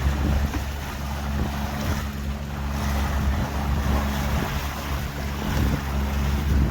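Tour boat's engine running steadily with a low hum, over water rushing past the hull and wind buffeting the microphone.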